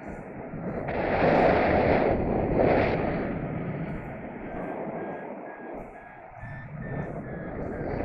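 Wind rushing over the microphone in flight, gusting loudest about one to three seconds in. Under it, a paragliding variometer beeps in short even pips whose pitch rises and falls slightly over the second half.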